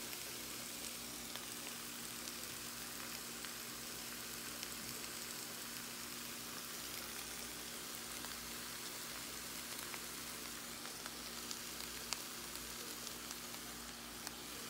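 Ground beef with onions and green peppers sizzling steadily in a nonstick frying pan under slices of cheese laid on to melt, with scattered small pops. A faint steady hum runs underneath.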